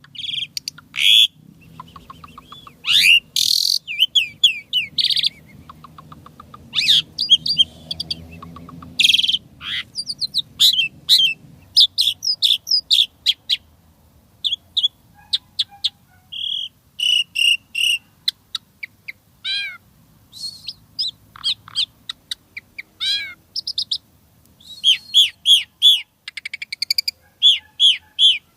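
Asian pied starling (jalak suren) singing a long, varied song of rapid chirps, clear whistles and buzzy rattling notes in quick bursts with short pauses. The song is packed with borrowed phrases (isian) mimicked from other birds.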